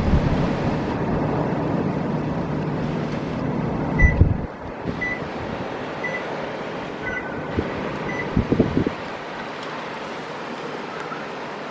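Blizzard wind and steady traffic rumble, which drops off about four seconds in. Wind buffets the microphone in hard thumps around four seconds and again near eight seconds. In the quieter middle, a short high beep repeats about once a second, five times.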